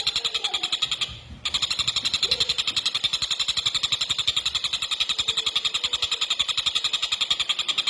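Tengkek buto kingfisher calling in a fast, tight rattling chatter, about a dozen notes a second, with a brief break about a second in.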